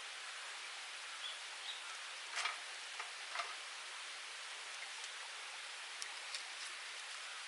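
Small wood fire burning in a UNIFLAME Nature Stove: a steady hiss with scattered sharp pops and crackles, a cluster of them a little after two seconds in and two more around six seconds.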